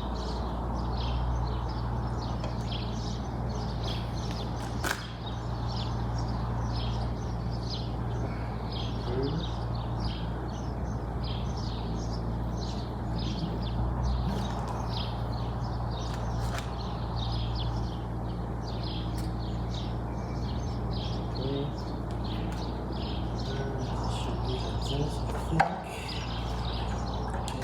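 Birds chirping busily over a steady low hum, with one sharp knock near the end.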